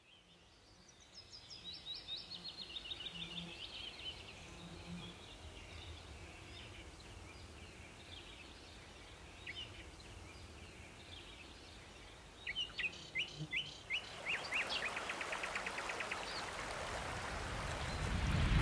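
Songbirds singing over a faint outdoor ambience: fast trills of sharp chirping notes near the start, then a louder series of separate notes running into a quick trill about two-thirds of the way in. A rising rush of noise swells up over the last few seconds.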